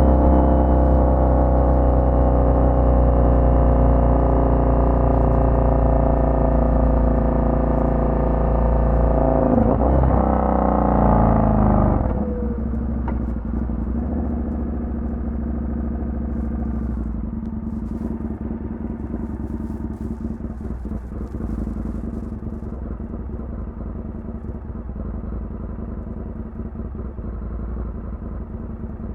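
Indian FTR 1200's V-twin through a Toce aftermarket exhaust, running under load with its pitch sliding slowly down. The revs swing up and down about ten seconds in, then the engine drops abruptly at about twelve seconds to a much quieter, low, steady running.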